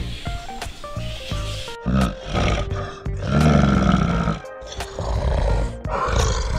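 Background music with a large animal calling several times over it in loud, rough growl-like calls, the longest and loudest about three and a half seconds in.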